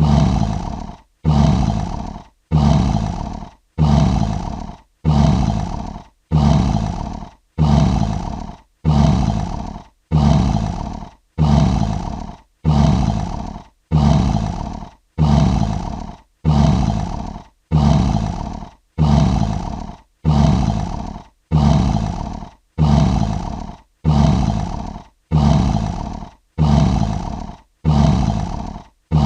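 A short lion roar played in a loop, about once every 1.3 seconds. Each roar starts loud and fades before a brief gap. The repeats are identical and evenly spaced, as in a looped sound effect, not a lion's natural roaring bout.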